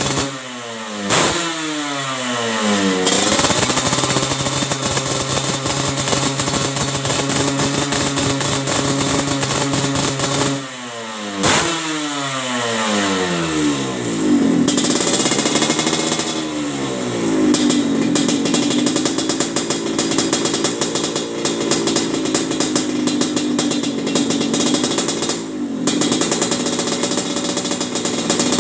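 Semi-ported motorcycle engine with a racing exhaust being revved. Sharp throttle blips about a second in and again around eleven seconds are each followed by the revs falling back, and then it is held at a raised, wavering rev for about ten seconds.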